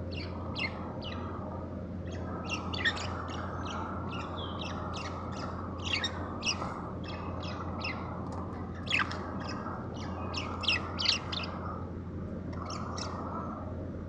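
Baby bird chirping: short, sharp, high-pitched calls, often several a second and coming in flurries, over a steady background hiss.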